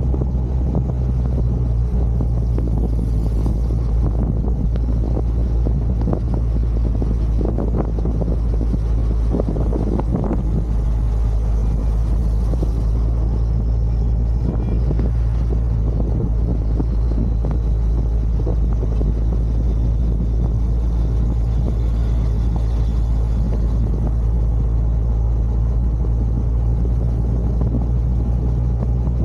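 A truck driving at a steady pace: a constant low engine and road rumble that does not change throughout, with a few light knocks around eight to ten seconds in.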